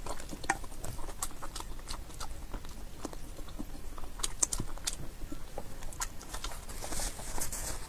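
Close-miked wet chewing and lip smacking of a mouthful of wide glass noodles in spicy sauce, a string of short sticky clicks, with a brief hissing slurp about seven seconds in.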